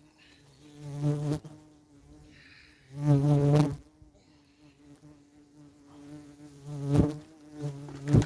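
An insect buzzing close by, coming and going. It swells loudest about a second in, for most of a second around three seconds in, and again near seven seconds. A couple of sharp knocks come near the end.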